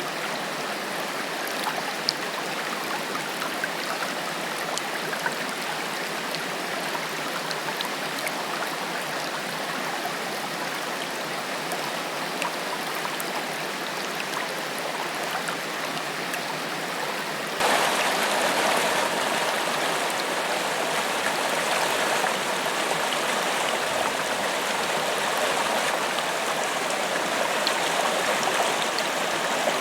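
Forest waterfall: water rushing and splashing steadily over rocks. A little over halfway through, the rush suddenly becomes louder and fuller.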